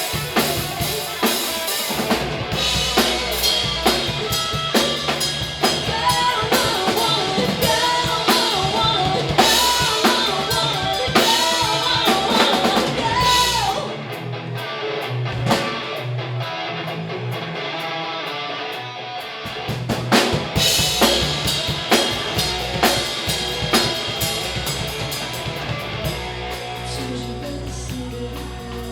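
Live band playing with drum kit, bass and guitar. About halfway through, the drums and bass drop out for several seconds, then the full band comes back in.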